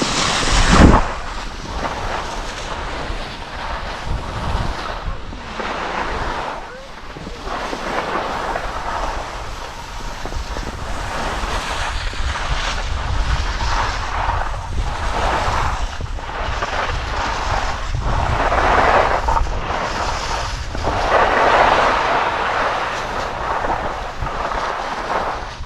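Wind rushing over the microphone while skiing downhill, with the hiss of skis scraping over the snow swelling and fading through the turns. A loud gust hits about a second in.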